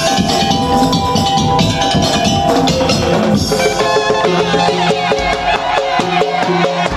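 Madurese tong-tong (ul-daul) ensemble playing: a dense, driving beat of drums and wooden percussion under a melody. From about halfway through, a busier, wavering melodic line comes in over the beat.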